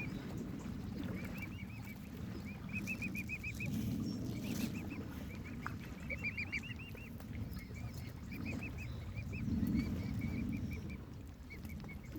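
Mute swan cygnet peeping: runs of short, quick high notes, repeated in bursts throughout, over a low steady rumble.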